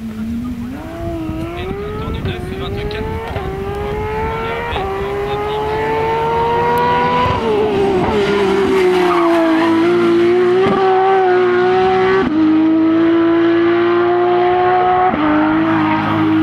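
Porsche 911 rally car's flat-six engine pulling hard through the gears: the pitch climbs, drops at each upshift and climbs again. About seven seconds in the revs fall away, then it pulls up through more upshifts, growing louder.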